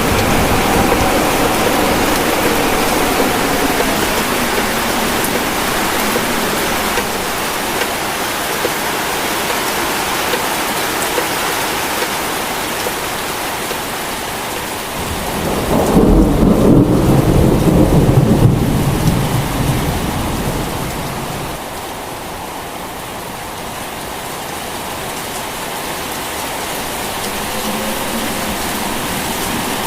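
Steady heavy rain with a long roll of thunder about halfway through, rumbling for around five seconds before it fades back into the rain.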